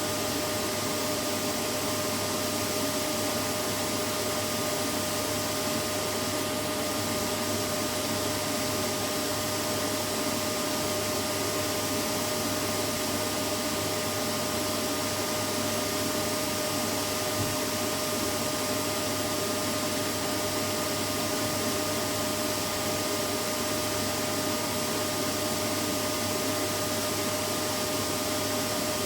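Vacuum cleaner running steadily, a constant whirring hiss with a steady hum, used as white noise to lull a baby to sleep.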